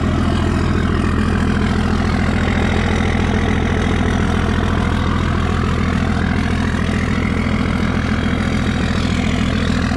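Dodge Cummins inline-six diesel idling steadily just after a hard cold start in freezing weather, now running smoothly.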